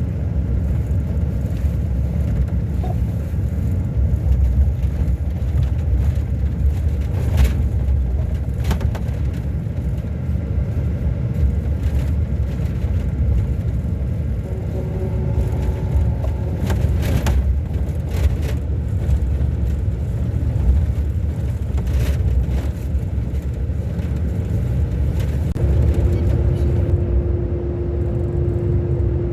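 Scania K400 Euro 5 coach engine, a 13-litre inline six, running with a steady low rumble. A few short knocks or rattles come through, and a steady tone comes in near the end.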